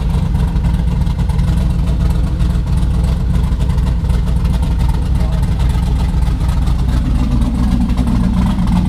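Twin-turbocharged 427 LSX V8 at wide-open throttle in a full-power chassis-dyno pull, running hard and steady with the note climbing slightly toward the end.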